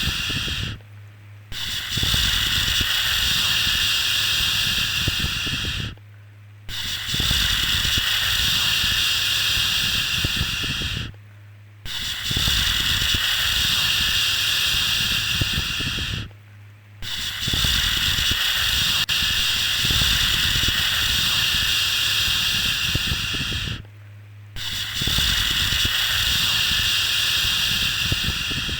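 A long, drawn-out 'shhh' shushing sound of the kind used to soothe a baby to sleep, repeated over and over. Each shush lasts about four to seven seconds, with a brief break of under a second between them.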